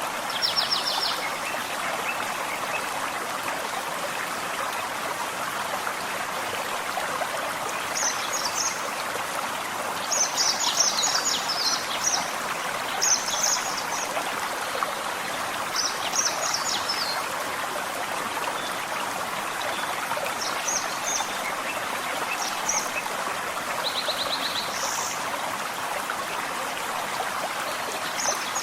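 Small forest stream babbling steadily over stones. Short phrases of quick, high-pitched bird notes come through above the water every few seconds.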